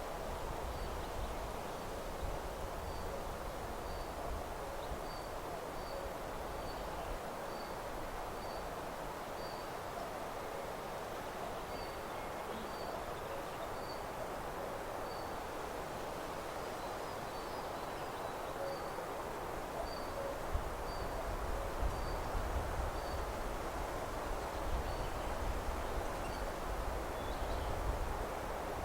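Meadow ambience: a steady rustling of wind and leaves, with a small bird repeating a short high note about once or twice a second. A low wind rumble on the microphone grows in the last third.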